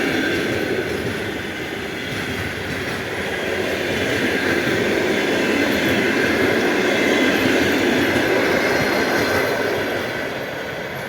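Passenger train hauled by a P36 steam locomotive rolling past on the rails, wheels running with a faint high squeal. It grows louder in the middle and fades near the end.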